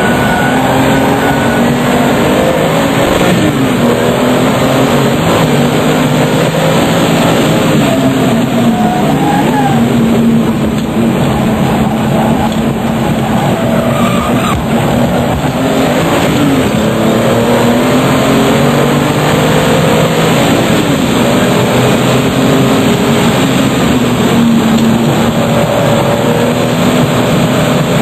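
RUF CTR Yellow Bird's twin-turbocharged flat-six engine being driven hard, its pitch climbing and dropping again and again with throttle and gear changes.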